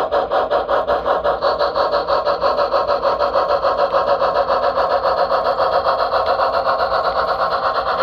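Model steam locomotive's chuffing sound, a rapid, even beat of exhaust chuffs, about eight a second, as the train gets under way.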